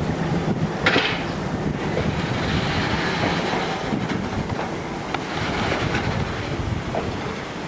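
Victorian Railways Walker diesel rail motor running as it pulls into the station, with wind buffeting the microphone. A few sharp clicks stand out, the loudest about a second in.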